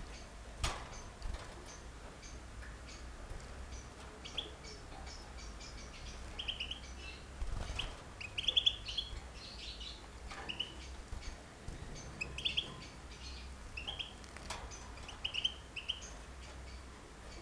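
Small caged birds chirping, many short high chirps overlapping, with a few sharp clicks and a steady low hum underneath.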